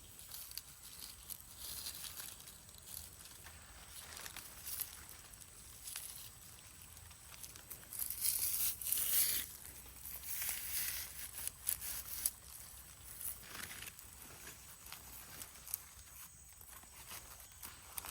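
Dry rustling and crinkling of material being handled, with a louder scraping rush about eight to nine seconds in.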